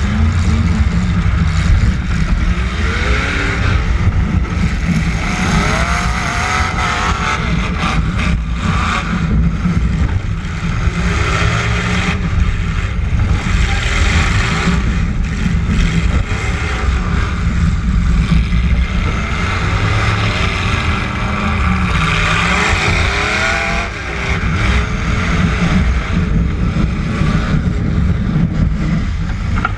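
Derby truck engines running loud and rough, revving up and down again and again, with a few sharp knocks along the way.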